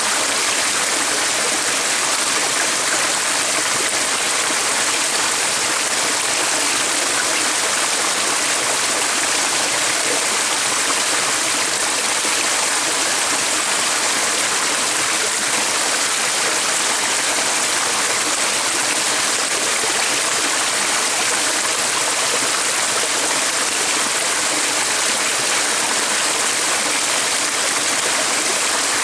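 Water of a stream flowing steadily: an even, unbroken rushing sound.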